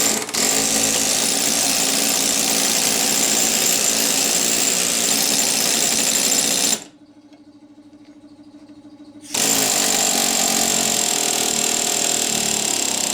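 Pneumatic air hammer running in two long bursts, driving a mower pulley along its shaft; it stops for about two and a half seconds in the middle and then runs again.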